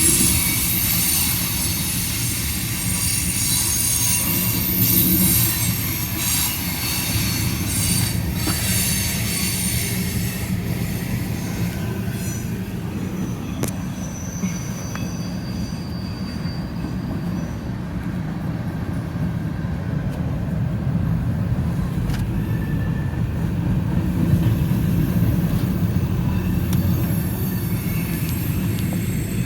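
Cars of a mixed freight train rolling past on the rails with a steady low rumble. High-pitched wheel squeal rides over it for roughly the first ten seconds, fades through the middle, and comes back near the end.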